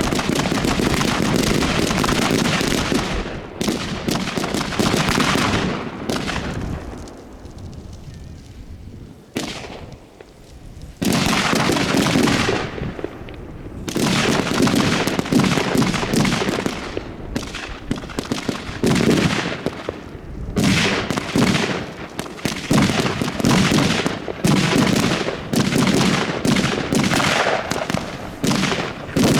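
Fireworks going off in a dense run of rapid bangs and crackles. They ease off about six seconds in and start up again sharply about five seconds later.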